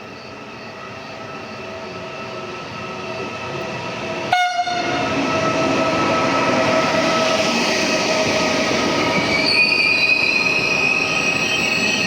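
A train approaching and growing steadily louder, with steady whining tones over the rumble. From about nine and a half seconds in, high-pitched wheel squeal joins in.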